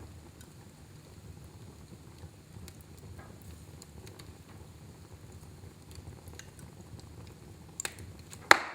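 Fire burning in a fireplace: a low steady rumble with scattered soft crackles, then two pops near the end, the second much louder and sharper.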